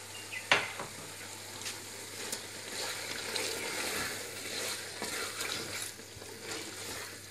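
Mutton masala sizzling in hot oil in a pot while boiled spinach is stirred into it with a wooden spatula, with small scraping ticks throughout. A sharp knock comes about half a second in.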